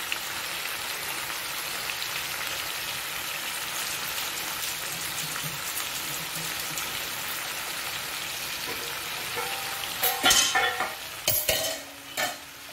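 Marinated chicken drumsticks shallow-frying in hot oil: a steady sizzle with fine crackling. Near the end come a few loud, ringing clanks of cookware being handled.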